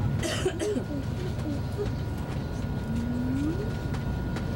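Steady low rumble of an ICE high-speed train running, heard inside the passenger car. A short voice sound comes just after the start, and a brief rising vocal sound comes about three seconds in.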